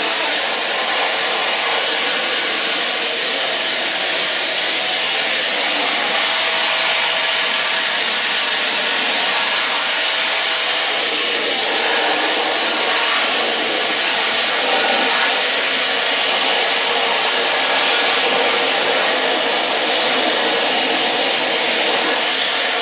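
Vacuum cleaner running steadily at full power as it sucks dust from window edges, a loud even rushing hiss of motor and air with little low end.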